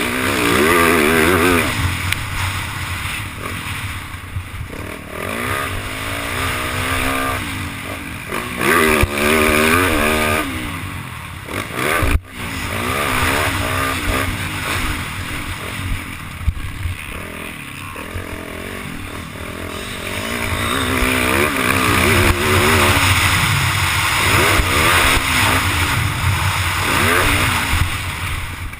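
Yamaha YZ450F motocross bike's four-stroke single-cylinder engine revving up and dropping back over and over as it is ridden around the track, the pitch climbing through each gear, with wind rushing over the microphone. A single sharp knock about twelve seconds in.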